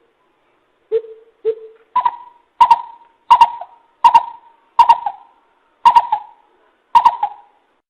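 Greater coucal calling a series of deep, hollow hoots. Two lower notes come first, then seven louder, higher hoots about two-thirds of a second apart, each trailing off.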